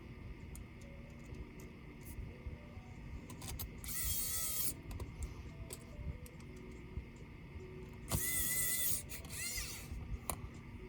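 Small electric screwdriver whirring in two short runs, about four and eight seconds in, with light clicks between, over quiet background music.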